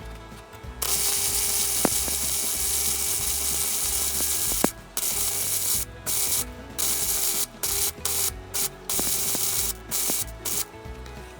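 MIG welder laying weld on steel chassis rail in hissing bursts: one long run of about four seconds, then a string of shorter bursts, each starting and stopping abruptly, over background music.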